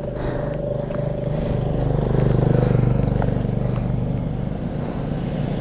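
KTM Duke 390 motorcycle's single-cylinder engine running steadily while under way, swelling louder about two seconds in and then easing back.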